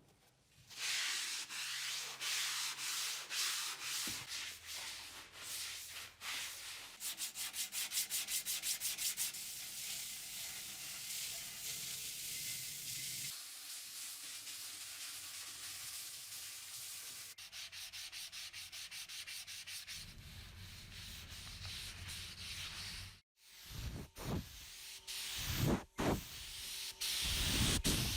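Sanding: abrasive rubbing on a part, a steady hiss broken by a run of quick even strokes, in several short sections that change abruptly.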